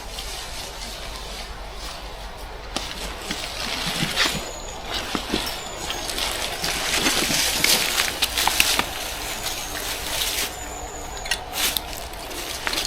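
Water splashing and sloshing, building up after a few seconds, with scattered clicks and knocks.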